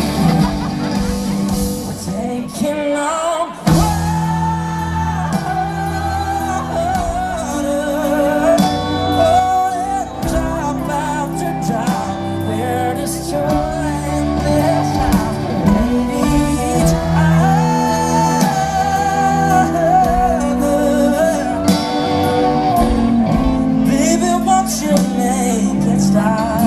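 Live band performing a country-pop song: a male lead vocal sings the chorus over guitar and a full band, with a brief drop in the music about three and a half seconds in.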